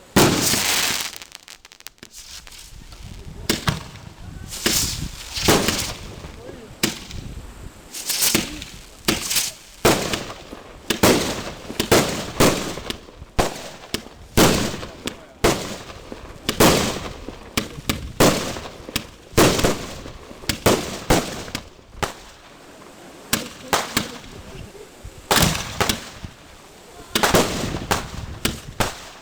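Fireworks display: aerial shells bursting in quick, irregular succession, sharp bangs each trailing off briefly, about one to two a second, with a loud burst right at the start.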